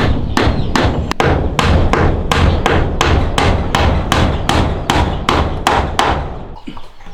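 A hammer struck in a steady rhythm of about three blows a second, stopping about six seconds in.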